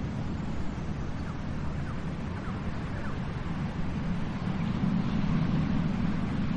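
Steady low rumble of sea surf and waves, swelling a little near the end, with a few faint short chirps early on.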